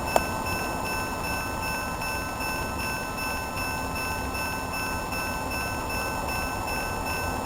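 HO-scale model train running on a layout: a steady running hum with several high, even whining tones. A single sharp click comes just after the start.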